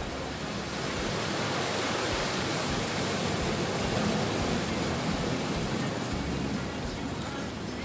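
Steady rushing water noise, with no clear pitch, swelling slightly in the middle.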